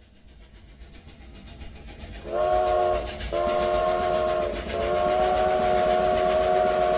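Steam-train sound effect opening a song: rhythmic chugging grows louder, then a chord train whistle sounds three times, the last blast long.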